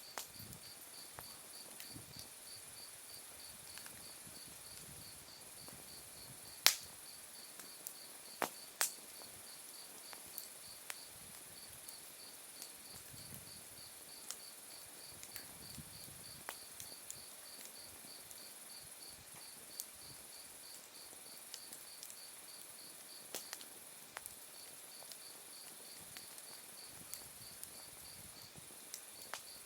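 Autumn night insects chirping, one with a steady rhythmic pulsing chirp and another with a continuous high trill, over a wood fire on open ground that gives scattered sharp crackles and pops of burning firewood, the loudest pop about a quarter of the way in and two more a couple of seconds later.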